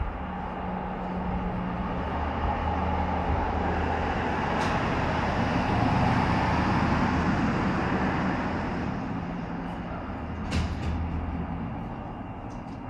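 Kawasaki Z H2 SE's supercharged inline-four, flash-tuned and fitted with a full exhaust, running steadily. A broader rush of noise swells to a peak near the middle and then fades. There are two sharp clicks, one a little before the middle and one near the end.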